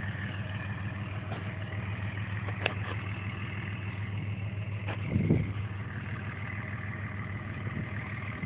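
Cummins diesel truck engine running steadily at a low speed, with a brief louder surge about five seconds in.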